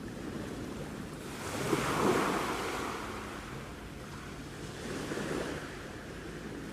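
Sea waves washing in, the surf swelling to a peak about two seconds in and again, more softly, around five seconds.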